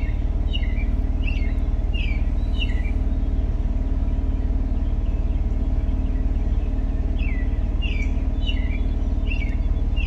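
A bird chirping, a string of short falling chirps about once a second in the first three seconds and again near the end, over a steady low mechanical hum.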